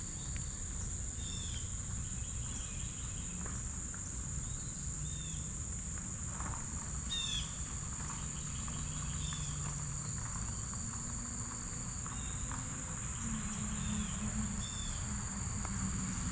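Steady high-pitched drone of insects, with short bird calls repeating every second or two over it and a low rumble underneath.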